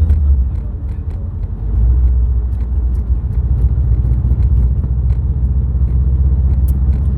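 Subaru WRX STI with its turbocharged flat-four, driving: a steady low engine and road rumble. It eases off about half a second in and picks up again just under two seconds in, with faint scattered clicks through it.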